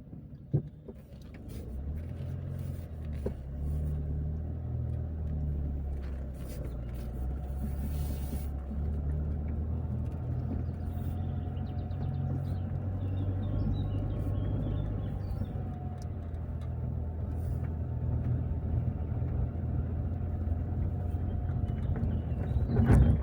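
Car engine and road rumble heard while driving, a steady low hum whose pitch shifts a few times. There are scattered light clicks, faint high chirping midway, and a loud knock just before the end.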